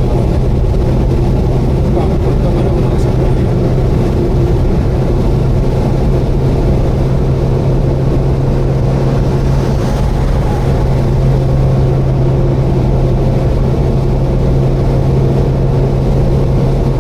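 Subaru Vivio kei car cruising at steady speed on the expressway, heard from inside the cabin: a constant engine drone with a steady low hum, together with road and wind noise.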